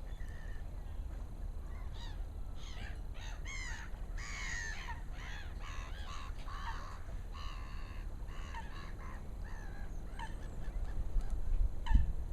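Birds calling in a noisy flurry of short, harsh, repeated calls that fade away near the end, over a steady low rumble of wind on the microphone, with a knock just before the end.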